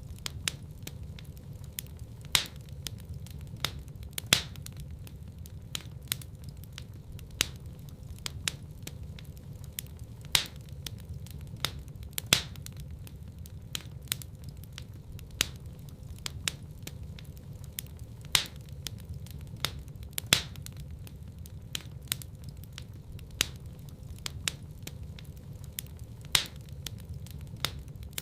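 Fire burning in a fireplace, crackling with frequent irregular sharp pops over a steady low rumble. A few pops are much louder than the rest, coming every couple of seconds.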